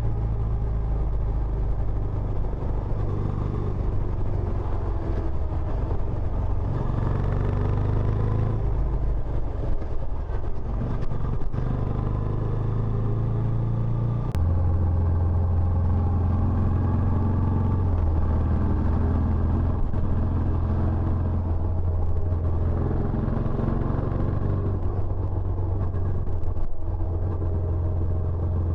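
Benelli Imperiale 400's air-cooled single-cylinder engine running through its stock exhaust, a continuous low engine note that changes pitch in steps, growing louder and steadier about halfway through.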